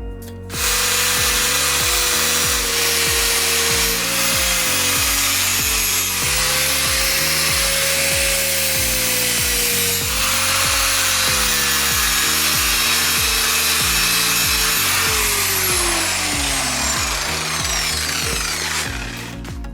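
Power tool cutting iron: a loud, harsh hiss with a whining motor tone that wavers under load, starting about half a second in and winding down near the end. Background music with a steady beat plays underneath.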